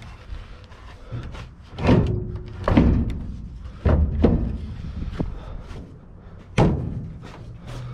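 Heavy thunks and knocks, about five in a few seconds, from something being worked into a pickup truck's bed, most likely the homemade tailgate being pushed and knocked into place.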